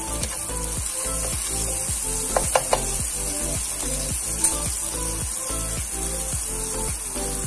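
Ginger-garlic paste sizzling in hot oil in a non-stick frying pan, with a few quick clinks of a steel spoon against the pan a little over two seconds in.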